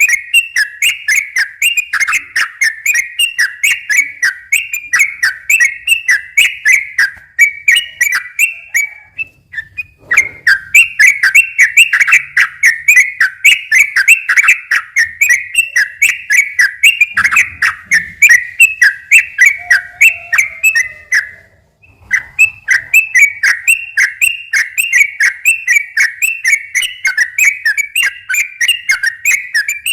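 Sooty-headed bulbul singing a long, fast 'ropel' song: a rapid run of repeated chattering notes, broken by short pauses about nine and twenty-two seconds in.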